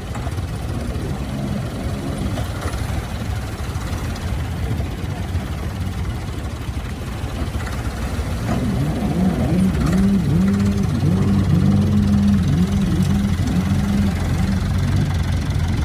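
Farm tractor's diesel engine running steadily. From about eight seconds in, its pitch starts wavering up and down and it grows louder as the engine works under changing throttle.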